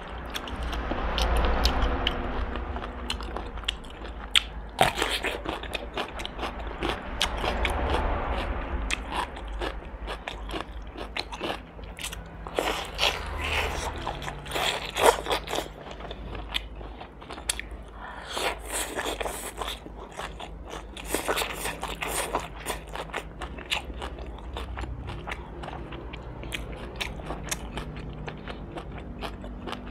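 Roast duck being bitten and chewed, with many short, sharp crisp clicks throughout.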